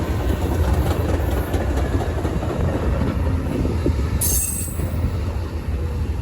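Amtrak passenger train running by, a heavy steady rumble of wheels on the rails, with a brief high hiss about four seconds in.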